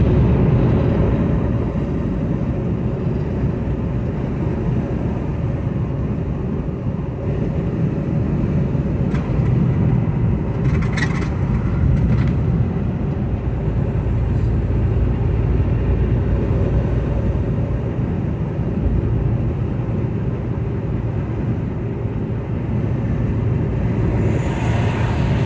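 Semi-truck diesel engine running, a steady low rumble, with a few light clicks about eleven seconds in.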